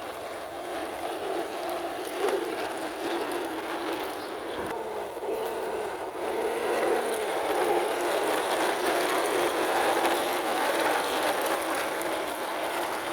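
A plastic toy truck loaded with small toy vehicles rolling along the ground, its wheels making a steady rolling noise.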